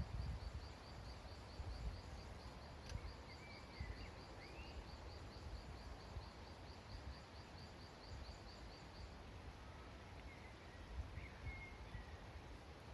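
Quiet woodland ambience. A small bird repeats a high, thin note about three to four times a second, stopping about two-thirds of the way through, while a few short chirps come from other birds. Under it there is a steady low rumble, and a brief low knock comes right at the start.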